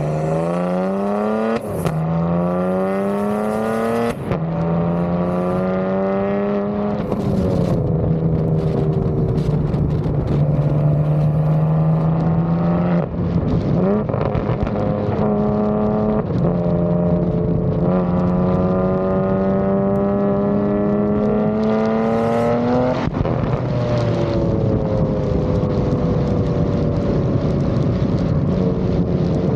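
BMW G80 M3's S58 twin-turbo straight-six running through an IRL full 3.5-inch single-pipe exhaust with the valve open. Under acceleration the pitch climbs and falls sharply at each upshift, three times in quick succession early on. Later the engine holds a steady cruise with another long pull.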